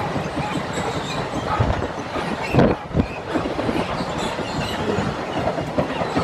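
Freight train hauled by Class 66 diesel locomotive 66091 passing over a level crossing, its wheels clattering over the rails, with one louder knock about two and a half seconds in.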